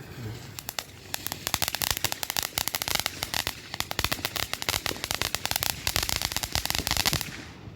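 Crackling firework: a dense, rapid run of sharp pops and crackles that starts about half a second in, thickens, and cuts off suddenly just after seven seconds.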